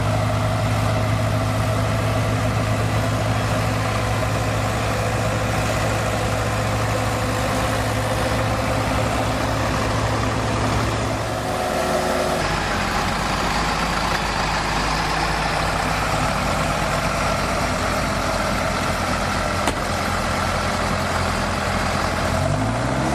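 Tractor engine running steadily. Its pitch shifts about halfway through, and it revs up near the end.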